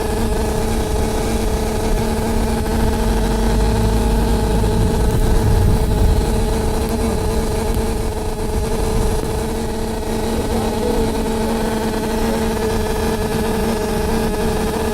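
Loud, nonstop noise on the upper deck of a double-decker bus: a steady hum held at two fixed pitches over the rumble of the bus's engine, with the rumble swelling briefly about five seconds in.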